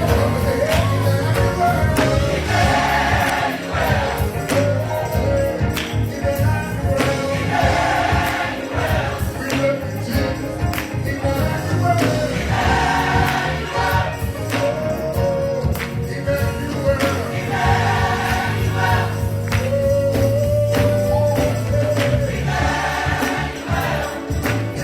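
Gospel choir singing with a live band: a steady bass line and drum strokes under choral phrases that swell in about every five seconds.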